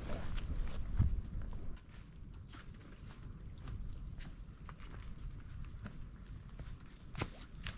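Insects trilling in a steady high pitch broken into short repeated pulses, with footsteps crunching on the trail. Low wind rumble on the microphone in the first two seconds or so.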